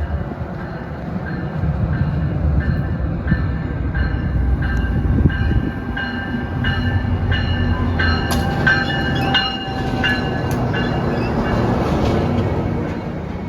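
A train rolling past on the station tracks: a low rumble with a regular clicking of wheels over rail joints, about two clicks a second, and high squealing from the wheels on the rails. It eases off near the end.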